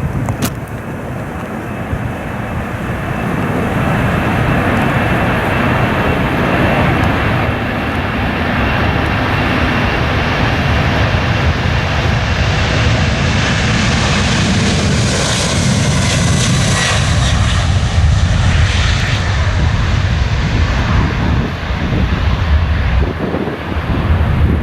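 Jet airliner taking off at full thrust, a loud engine rumble that builds as it passes, with a high engine whine peaking about two-thirds of the way through, then fading while the low rumble carries on.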